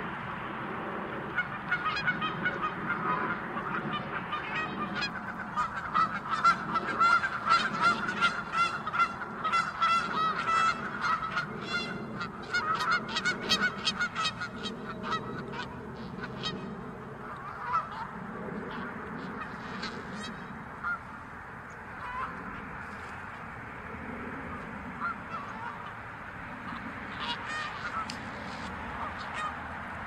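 Canada geese honking, many short calls overlapping in rapid succession, thinning out to scattered honks about halfway through.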